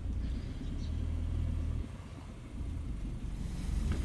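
Honda car's engine running, heard from inside the cabin as a steady low rumble that dips slightly about two seconds in.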